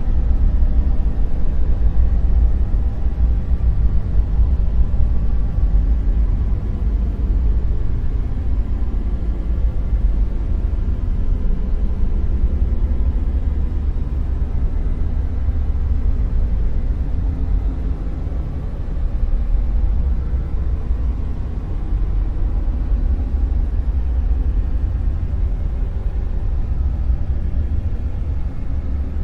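Dark noise: a steady, deep rumbling hiss weighted heavily toward the bass, with only slow, gentle swells in level.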